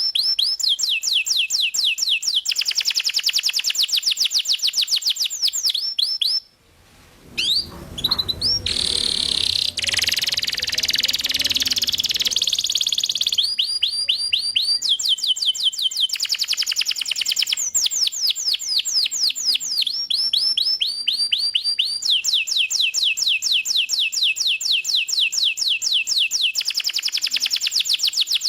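Domestic canary in full song: long fast trills of rapidly repeated notes, switching to a new trill every few seconds. About six and a half seconds in the song breaks off briefly, then comes back as a harsher, buzzier passage before the clear trills resume.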